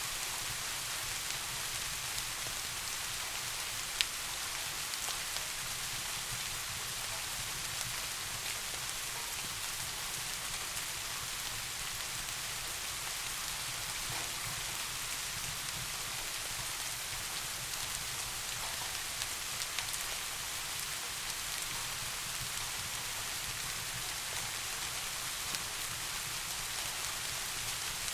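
Steady rain falling, an even hiss with a low rumble underneath, and a few sharp clicks, the loudest about four seconds in.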